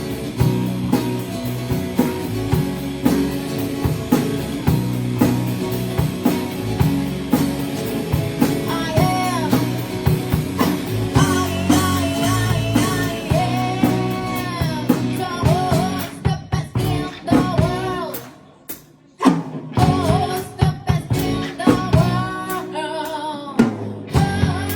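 Rock band playing: guitar, drum kit and a lead singer. Near the end the band stops dead for about a second, then comes back in on a loud hit.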